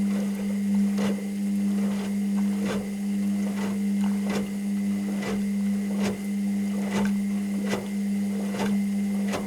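Washing machine running: a steady motor hum with a regular click or knock a little faster than once a second as the drum turns, cutting off abruptly at the very end as the drum stops.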